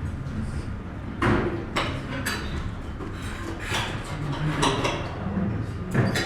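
Breakfast-room clatter: about half a dozen sharp clinks and knocks of plates and cutlery spread over a few seconds, above the low background din of a busy dining room.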